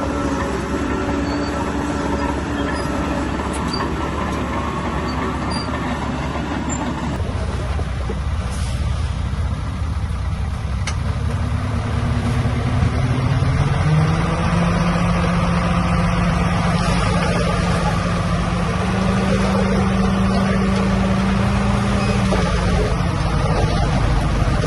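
Diesel engine of heavy earth-moving equipment running steadily, then revving up about halfway through and holding at the higher speed.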